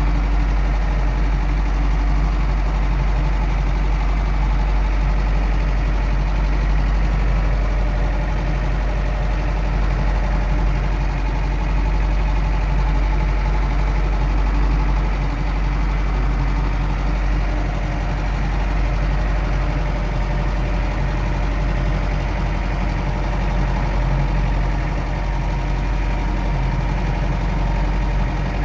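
Farm tractor engine running steadily as the tractor drives over the snow, a constant low hum.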